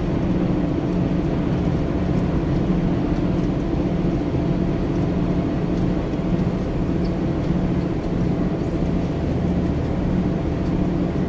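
An old car's engine running steadily at idle.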